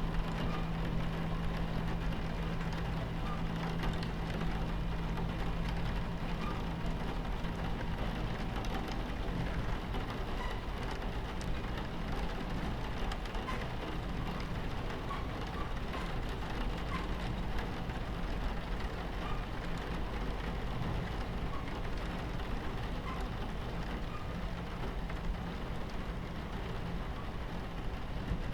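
Steady low rumble of a train running on its tracks, mixed with rain falling against the carriage window. A low hum in the rumble fades about nine seconds in.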